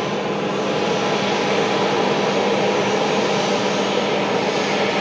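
Airliner engines running, a steady even noise with a faint low hum, holding level throughout.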